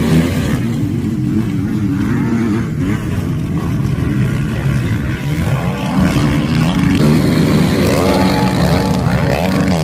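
Motocross motorcycle engines revving up and down, the pitch climbing near the end.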